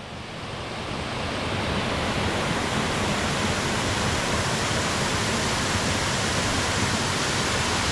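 Rushing water of a beck and waterfall, a steady even roar that swells over the first couple of seconds and then holds level.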